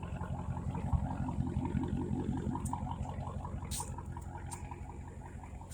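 Dodge Charger Scat Pack's 392 HEMI V8 idling through freshly cut straight pipes, a steady low rumble of exhaust pulses. It swells a little about a second in, then settles back.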